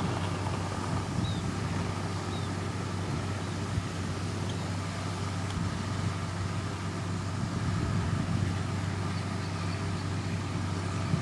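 Heavy diesel engine of a motor grader running steadily under load, a constant deep hum. A few short, faint high chirps sound in the first few seconds.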